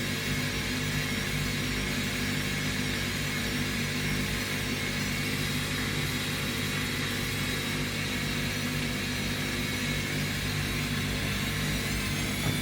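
Washing machines on their final spin cycle, a Bosch Classixx and a Hoover, the drum motors running with a steady hum and a thin high whine. Near the end a higher whine starts to rise as a drum picks up speed.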